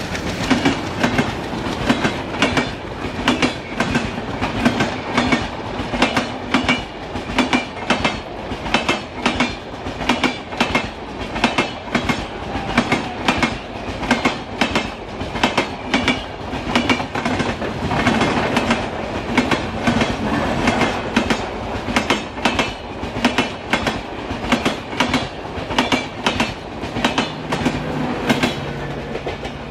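Express passenger coaches passing close by at speed: steel wheels clattering over the rail joints in a steady, rapid clickety-clack over a continuous rumble. Near the end the last coach, a luggage brake and generator car, goes by and the clatter falls away.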